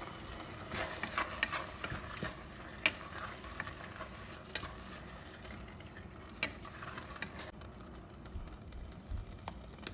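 Ground chicken frying in a pan and being stirred with a spoon: scrapes and light knocks against the pan over a faint sizzle. The sharpest knock comes about three seconds in, and the stirring thins out after about seven seconds.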